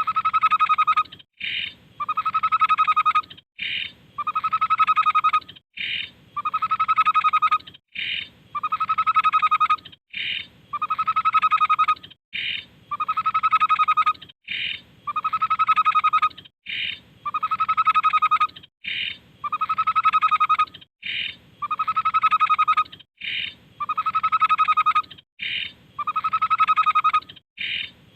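Tepus babbler song: a rapid trill about a second long, followed by a short higher note, repeated in the same phrase about every two seconds.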